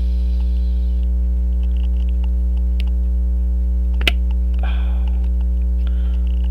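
Steady electrical mains hum with a ladder of overtones, and one sharp click about four seconds in, followed by faint scraping during work on the watch with small tools.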